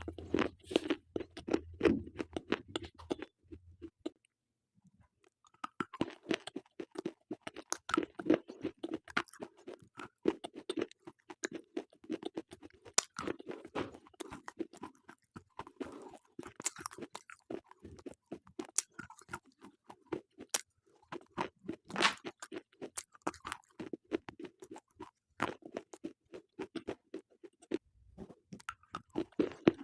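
Slate pencils being bitten and chewed, a rapid run of dry crunches and crackles with a short pause about four seconds in.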